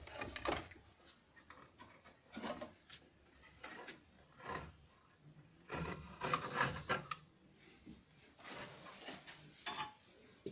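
Irregular wooden knocks, rubs and scrapes of pieces of wood being handled and shifted, with a denser cluster of scraping around the middle and again near the end.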